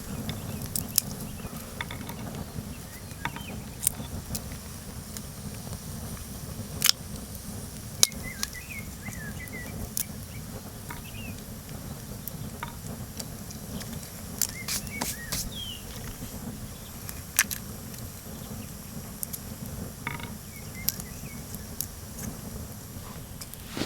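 Wood fire crackling, with irregular sharp pops over a steady low rumble; short bird chirps come in now and then.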